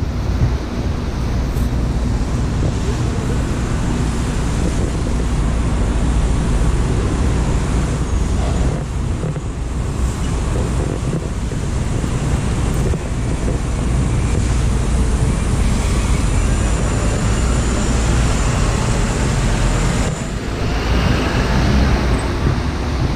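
Steady city street traffic noise: passing vehicles with a continuous low rumble, and no speech.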